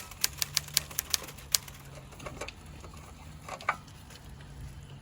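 A quick, fairly even run of about eight sharp clicks in the first second and a half, then a couple more a little later, over a low steady hum.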